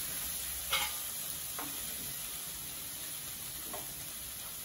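Onion-and-spice masala sizzling gently in a kadhai, a steady soft hiss, with a few light clicks, the clearest about a second in.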